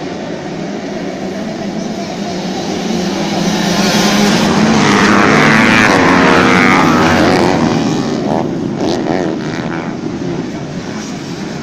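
Dirt bike engines racing past on the track, getting louder to a peak about five or six seconds in, then fading as they pull away.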